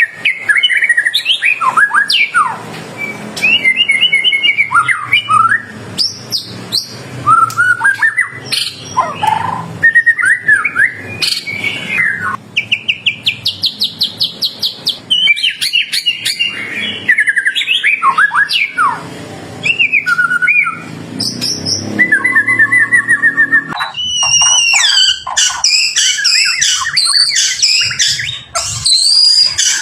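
White-rumped shama singing loudly: a string of varied whistled phrases that glide up and down. About halfway through comes a fast rattling trill of rapidly repeated notes, and near the end the song turns busier and higher-pitched.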